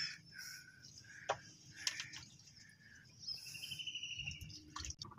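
Birds chirping faintly, with short scattered chirps and a brief rapid trill about three seconds in.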